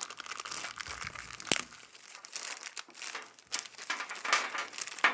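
A small plastic parts bag crinkling as it is handled and opened, with scattered clicks and one sharp click about a second and a half in.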